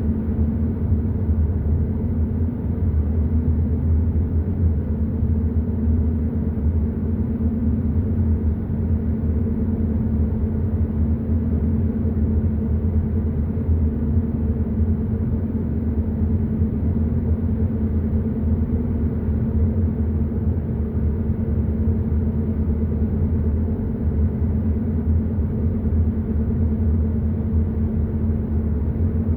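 Hyundai i30 N Line driving at a steady pace: an even, low rumble of engine and tyre noise with a steady hum, unchanging throughout.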